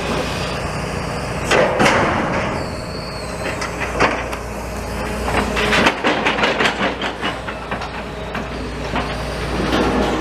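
Steady low rumble of vehicles and machinery at a demolition site, broken by a few knocks and a quick run of clattering strokes about halfway through.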